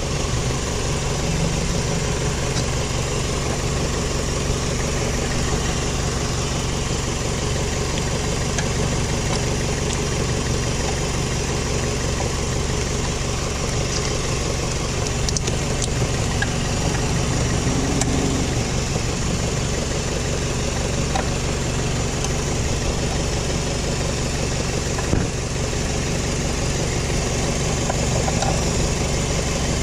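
Scion xA's 1.5-litre four-cylinder engine idling steadily, with an occasional light click.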